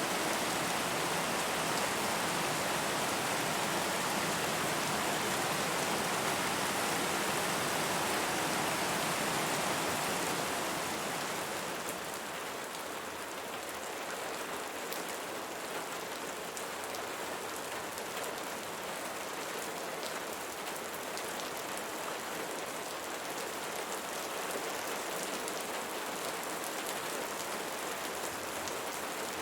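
Steady rain falling, an even hiss of many drops. About ten seconds in it eases a little, and individual drops stand out more.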